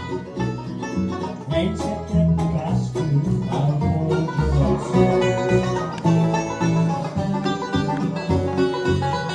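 Live bluegrass band playing the instrumental ending of a song, banjo and guitar picking, with a final chord struck at the very end that rings out.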